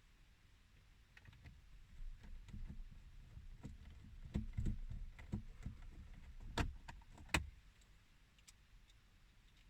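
Parts and tools being handled at a car's dashboard during screw and trim work: an irregular run of light knocks and clicks with soft thuds, ending in two sharper clicks a little under a second apart.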